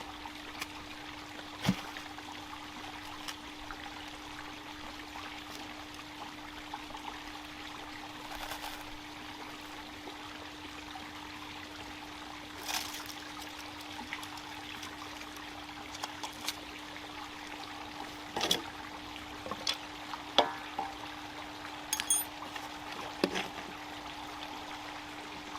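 Newly lit campfire burning with a steady hiss and scattered sharp crackles and pops at irregular intervals, as the fire takes hold.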